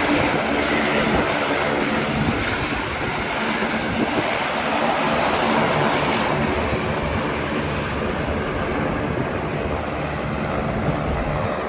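Propeller airplane engines running steadily, a constant loud drone with a faint hum.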